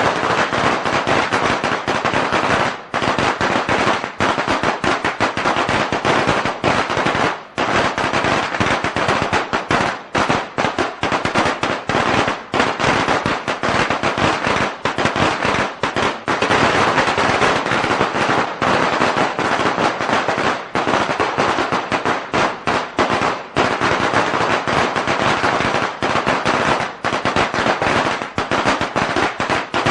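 A string of firecrackers going off in a dense, continuous rapid crackle of bangs.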